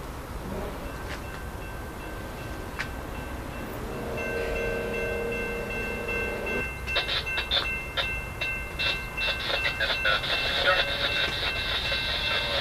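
Passenger train approaching a station grade crossing: its horn sounds one chord for about two and a half seconds around four seconds in. From about seven seconds on, a fast ringing clatter sets in and grows louder as the train draws near.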